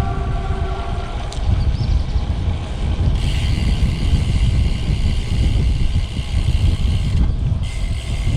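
Wind rumbling on the microphone of a moving road bike, with road noise underneath; a steady higher hiss joins about three seconds in.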